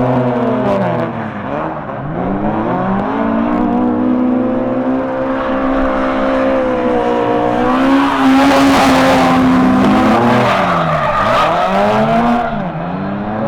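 Car engine revving up and down several times, with a screech of tyres sliding about two-thirds of the way through.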